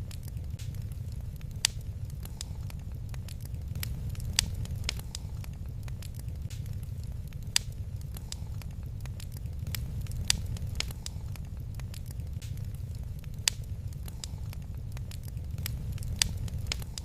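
Wood fire crackling in a fireplace: irregular sharp pops and snaps over a steady low rumble of the flames, with a louder pop every few seconds.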